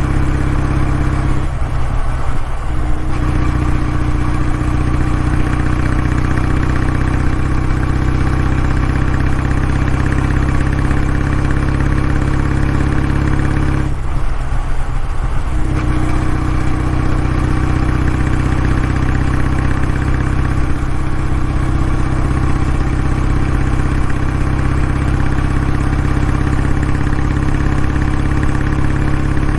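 Kawasaki W650's air-cooled parallel-twin engine running steadily, its exhaust note the dominant sound. The deep low note briefly thins out twice, about two seconds in and again around the middle.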